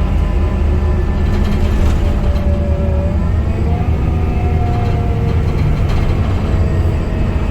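Scania K250UB bus's five-cylinder diesel engine running under way, heard on board as a steady low rumble. A faint whine rises in pitch a few seconds in.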